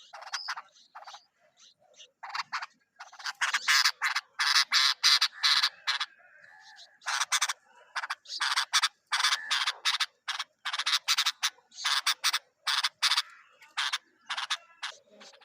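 Bulbul chicks calling in a rapid, uneven series of short, raspy notes, sparse at first and then coming in quick runs of several notes, typical of nestlings begging for food.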